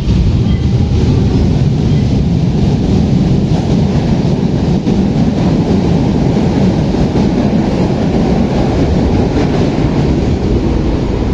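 Train running, a steady low rumble heard from inside the carriage.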